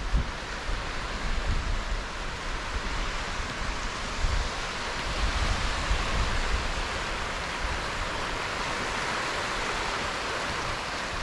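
Strong gusty wind over a lake with choppy, wind-driven waves: a steady rush of wind and water, with low rumbling gusts buffeting the microphone in the first half.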